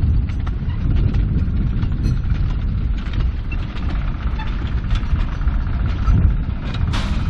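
Diesel-hydraulic cane train locomotive running with a steady low rumble, with frequent clicks and knocks from the train and track throughout and a sharper burst of clatter near the end.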